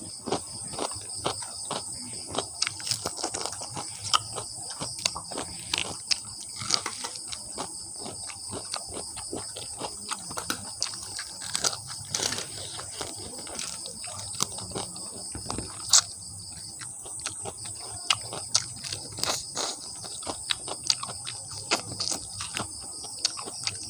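Close-miked biting and chewing of crispy, breaded fried chicken feet: many irregular crunching clicks and wet mouth smacks, with a steady high hiss underneath.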